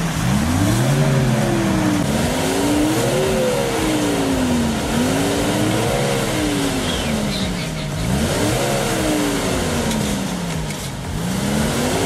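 Opel Frontera's engine revving hard and easing off, five times over, as the stuck off-roader tries to power out of a stream.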